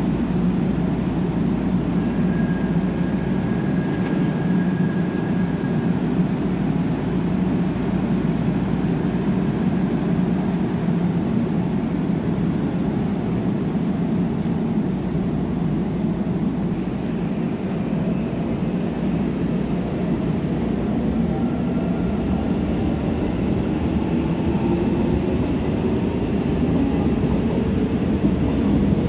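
Seoul Subway Line 1 electric commuter train pulling out and running past the platform, a steady low rumble of the cars on the rails, with a motor whine that rises slowly in pitch over the last several seconds.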